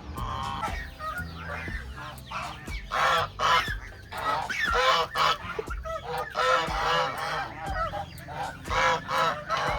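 Domestic geese honking, many short calls in quick succession, several birds at once.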